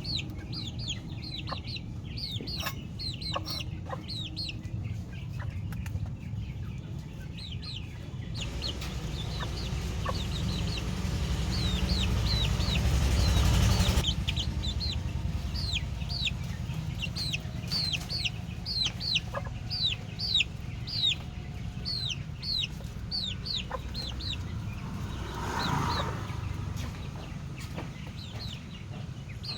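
Chicks peeping: a long run of short, high, falling peeps, several a second. Under them is a low rumbling noise that builds and stops abruptly about halfway through.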